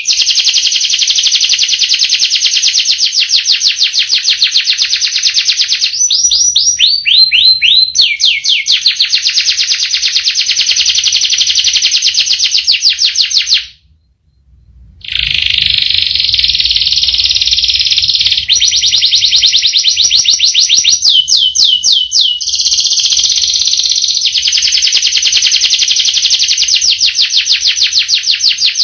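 Domestic canary singing long rolls: fast trills of rapidly repeated high notes that change pattern every few seconds, broken by a pause of about a second around the middle.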